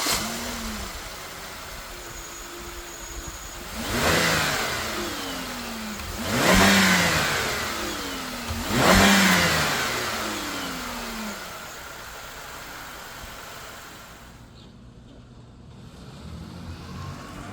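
2007 Pontiac G6 engine idling, then revved three times, about two and a half seconds apart; each rev climbs quickly and falls back to idle over a couple of seconds, after which it idles quietly.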